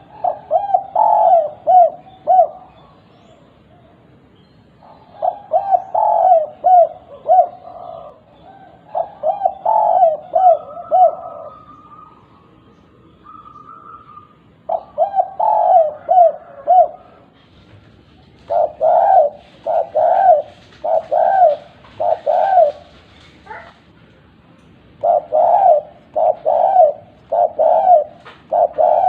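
Spotted dove cooing in repeated phrases of several quick coos, with short pauses between phrases. This is the 'kuk 2' style call that dove keepers use as a lure to set other doves calling.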